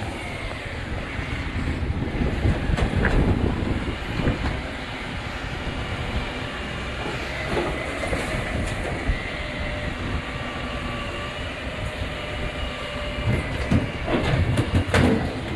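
Rubbish truck running, a steady mechanical rumble with faint squealing tones from the truck's moving parts. Several knocks follow from about 13 s in.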